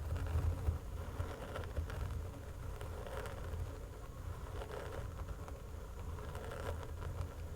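Fingernails scratching over a person in slow repeated strokes, a soft rasping swell about every second and a half, over a steady low rumble.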